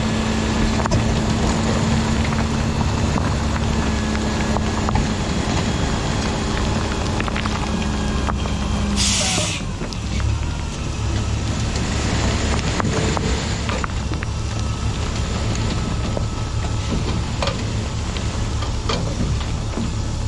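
Dump truck's diesel engine running with a steady rumble. About nine seconds in, a short sharp hiss of air sounds and the engine's hum drops away.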